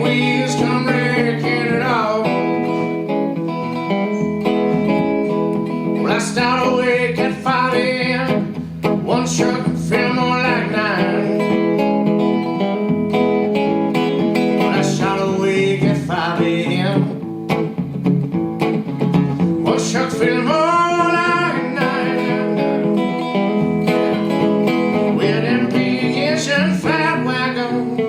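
Live solo blues performance: guitar playing a steady accompaniment, with a bending melody line coming in short phrases every few seconds.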